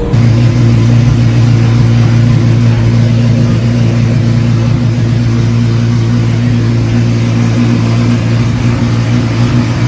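Car engine running loud at a steady pitch, holding one even note without revving up or down.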